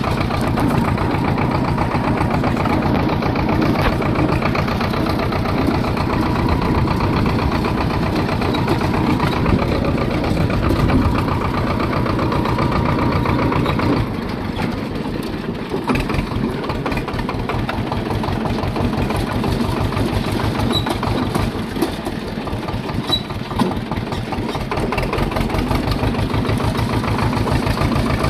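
Swaraj 724 tractor's diesel engine running steadily as the tractor drives along, easing off about halfway through and picking up again near the end.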